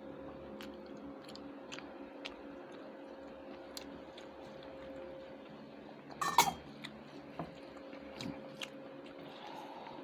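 A person chewing food, with small clicks of eating throughout and one louder clatter about six seconds in, over a steady hum.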